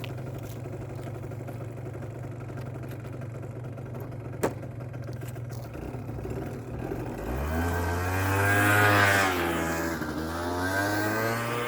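Kymco Super Fever ZX 50cc two-stroke scooter engine running at a steady idle, with a single sharp click partway through. After about seven seconds it revs up, falls back, then picks up again.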